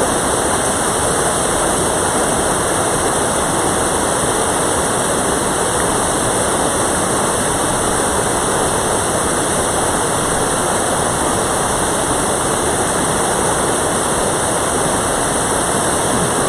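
Mountain stream water rushing over rocks close by, a steady, fairly loud rush with no change.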